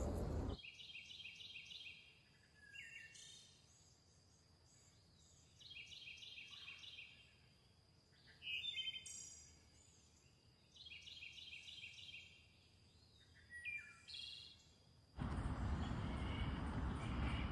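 Bird song over a very quiet background: a short trilled phrase repeated three times, about five seconds apart, with single chirps in between. Near the end the birdsong gives way to a steady rushing noise.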